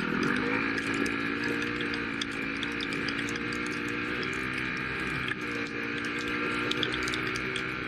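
Dirt bike engine running at fairly steady revs, the pitch dipping and climbing back right at the start and easing briefly a few more times as the throttle is worked, with many small ticks over it.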